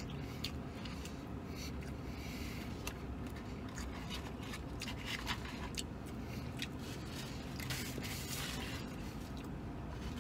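A man chewing a big mouthful of sandwich: soft wet mouth clicks and smacks, with a couple of brief papery rustles, over a steady low hum.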